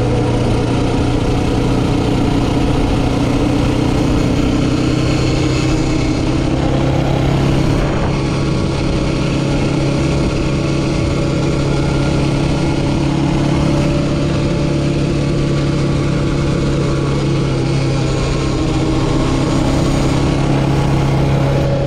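Yamaha Raptor 700R quad bike's single-cylinder engine running steadily, its pitch holding even throughout.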